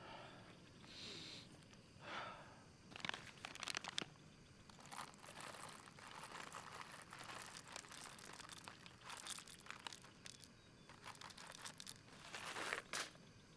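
Faint crinkling and rustling of something being handled, in irregular bursts of crackle, loudest in two bunches: one a few seconds in and one near the end.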